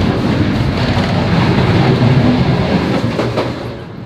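Passenger train running, a steady rumble and clatter of wheels on the rails heard from inside a carriage, with a couple of sharp clicks about three seconds in.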